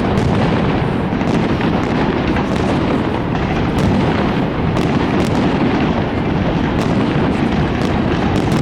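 Fireworks display at full intensity: a dense, unbroken barrage of bangs with many sharp crackles throughout, the individual shots merging into one continuous din.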